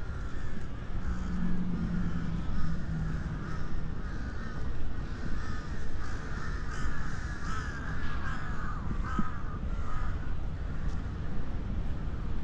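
Crows calling and cawing repeatedly over a steady low rumble.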